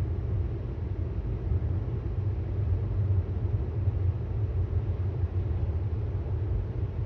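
Road and tyre noise of a 2018 Tesla Model S 75D at speed, heard inside the cabin as a steady low rumble with no engine note.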